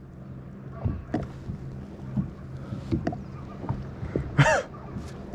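Scattered light knocks and clicks on a kayak as the angler handles his gear after the line snaps, with a short groan of dismay about four and a half seconds in.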